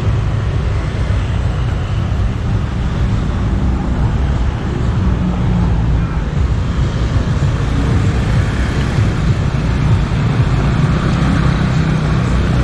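Street traffic noise: vehicles running past, under a steady, heavy low rumble.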